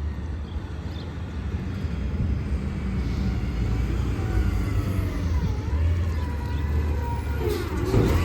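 Heavy truck engine running with a steady low rumble, joined from about halfway in by faint wavering tones that rise and fall, and a brief clatter near the end.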